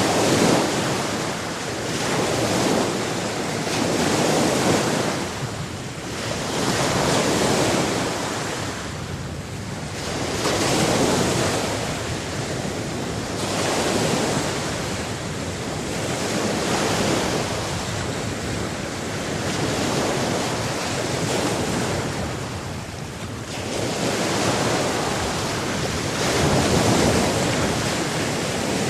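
Sea waves breaking and washing in, the water noise swelling and falling back in slow surges every three to four seconds.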